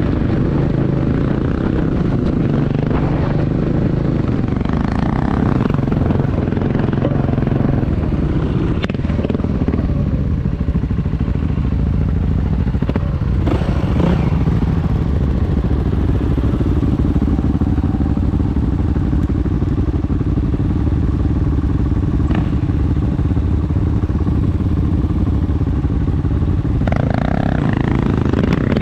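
Motorcycle engine running steadily under way, with a steady engine note and a low rumble of road and wind noise.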